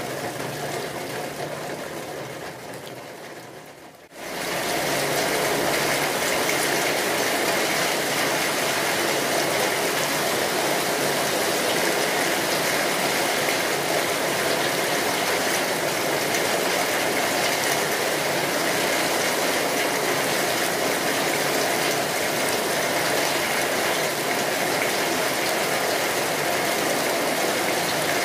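Steady heavy rain, a dense even hiss. The rain fades down over the first few seconds, then starts again abruptly at full level about four seconds in, as at the join of a looped recording.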